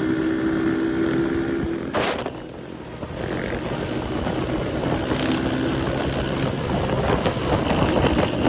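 Dirt bike engine running under way at steady revs; about two seconds in the throttle is chopped and the engine drops off, then it comes back up a second later, with wind noise over the microphone.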